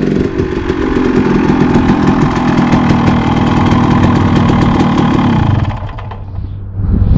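KTM 300 two-stroke single-cylinder dirt bike engine running. About five and a half seconds in, the sound drops off sharply and a quieter low hum is left.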